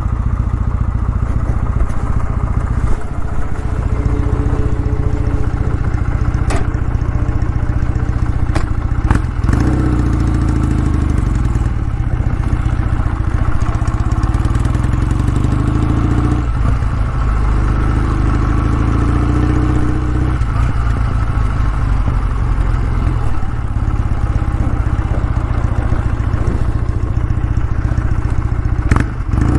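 Kawasaki W650's air-cooled parallel-twin engine running, heard through its exhaust as a steady low beat whose pitch shifts a few times. A few short sharp clicks sound over it.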